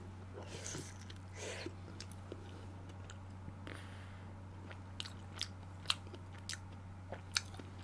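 A mouthful of spicy braised pork ribs being chewed close to the microphone, soft and quiet, with a few small sharp clicks in the second half, over a low steady hum.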